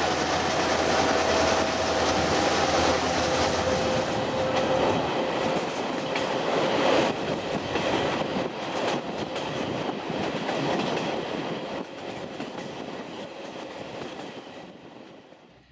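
Train running at speed, heard from an open coach window: steady rumble and clatter of wheels on the rails, with a steady whine over the first five seconds while passing through a tunnel. The noise fades out near the end.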